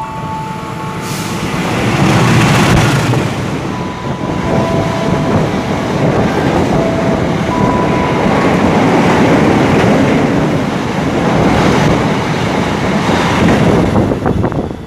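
A train running close past the camera: a loud, steady rumble and rush of wheels on rail that builds about two seconds in, with a few sharp clicks near the end.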